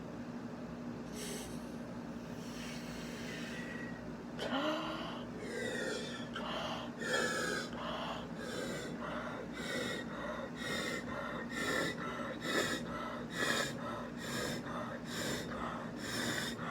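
A person blowing hard, in repeated short puffs, into bubble putty to inflate a bubble. The puffs start about four seconds in and come quicker toward the end.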